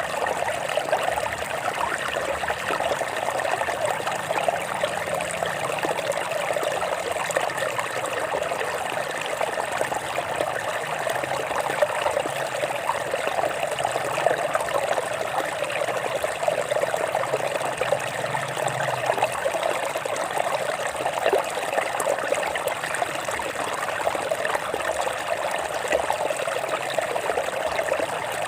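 Water running and trickling over rocks in a small stream: a steady babbling rush.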